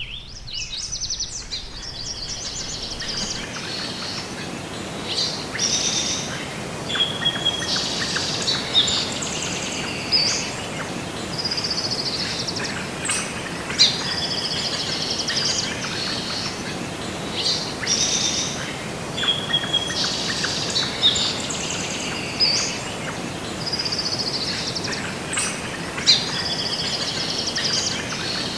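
Several small birds chirping and singing over a steady outdoor hiss. The same stretch of birdsong comes round again about every twelve seconds, as in a looped nature ambience track.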